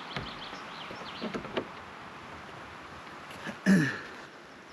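Outdoor background noise with a few faint high chirps in the first second, and a short, loud vocal sound about three and a half seconds in.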